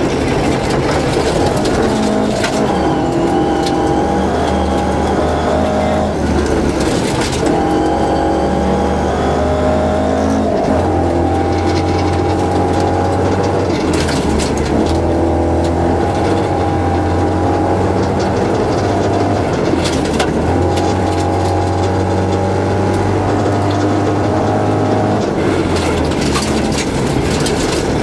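Rally car engine running hard at high revs, its pitch shifting in steps every few seconds as it changes gear, heard from inside the cabin, with scattered knocks from the road.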